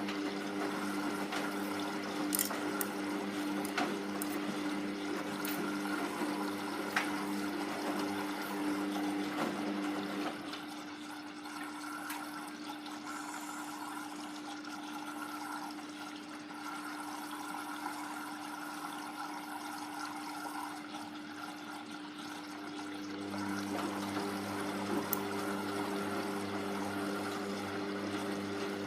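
Hoover Vision Tech washing machine draining: the drain pump hums steadily as water runs through it. About a third of the way in the pump stops and only the sound of water is left. Near the end the pump hums again, a little deeper than before. A few light ticks come early on.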